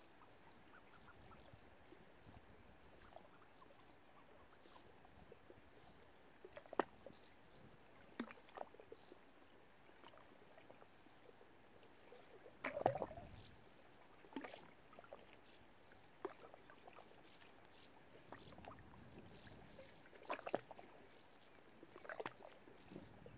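Faint, quiet water lapping with scattered small splashes and clicks, one louder splash about halfway through.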